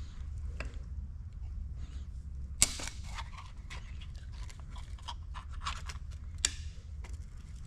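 Irregular small metallic clicks and clinks from hand work on a piston and ring compressor at the engine block, with two sharp loud clacks, one a few seconds in and one near the end, over a steady low hum.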